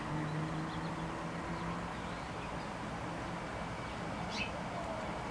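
Outdoor ambience: a few short bird chirps, the clearest a quick falling chirp about four seconds in, over a low steady hum that fades about halfway through.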